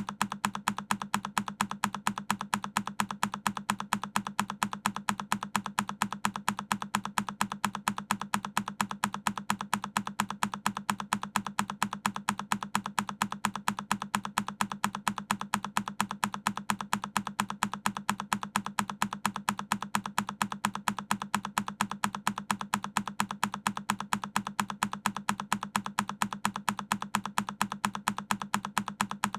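A single key press on a Keychron K10 mechanical keyboard, looped into an evenly spaced train of identical clicks, several a second, without a break.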